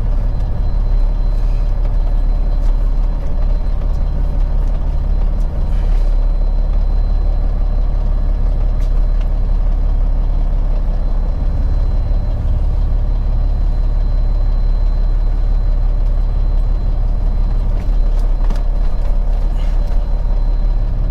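Peterbilt 379 semi truck running, a steady low engine drone with no change in pitch.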